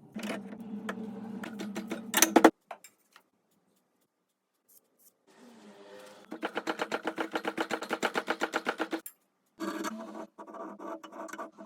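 An electric power tool running in short separate bursts, with clicks and knocks. In the middle stretch it runs with a fast, even pulsing of about ten beats a second.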